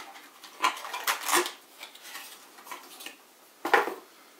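Clicks and clatters of an Intel Pentium CPU's retail packaging being handled and opened: a cluster about a second in, and the loudest clack near the end.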